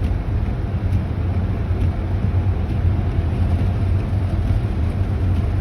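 Steady low rumble inside a moving car's cabin: engine and road noise while driving.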